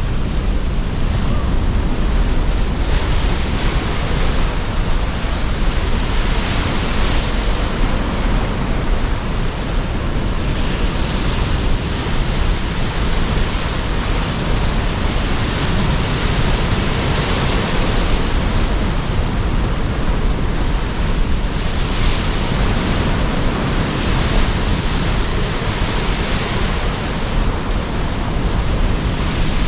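Sea surf and strong wind: a continuous rushing noise, with waves swelling and easing every few seconds over a steady deep rumble of wind.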